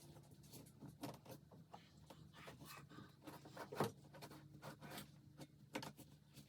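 Faint, irregular scraping and light knocks, with a sharper knock about four seconds in, over a steady low hum.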